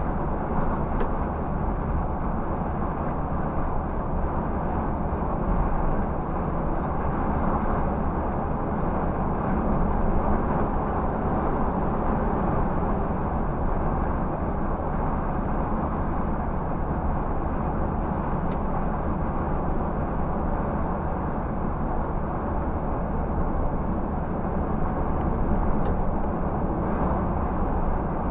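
Scania 360 truck driving at a steady pace: an even engine drone mixed with road noise, with no gear changes or revving.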